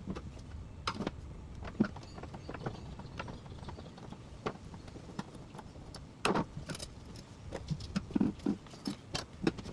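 Irregular metallic clinks and knocks from hand tools and parts being handled while the engine bay is taken apart, with the loudest cluster a little past halfway and a quick run of knocks near the end.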